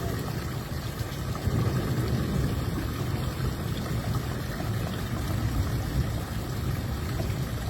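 Steady low rumble with a noisy hiss above it, unbroken throughout.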